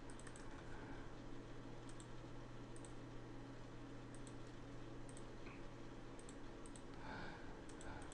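Computer mouse clicking, faint and irregular: a dozen or so short clicks, many heard as a quick press-and-release pair, over a steady low hum.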